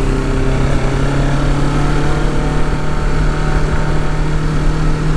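Kawasaki Ninja 650's parallel-twin engine running at a steady cruise, its note holding an even pitch.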